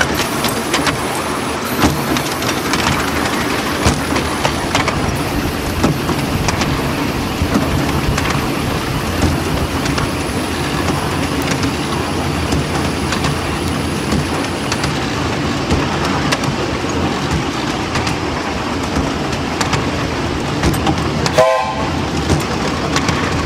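Miniature railway train running along its track, heard from aboard: a steady rumble with frequent clicks of the wheels over rail joints. A brief pitched toot sounds near the end.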